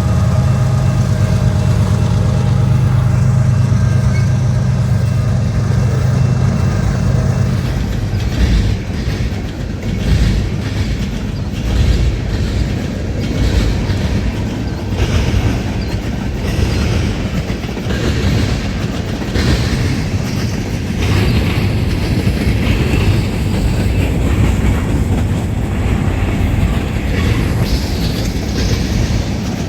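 A train passing close by: a diesel locomotive's engine drone for the first several seconds, then railcars rolling past with an irregular clatter of wheels over rail joints.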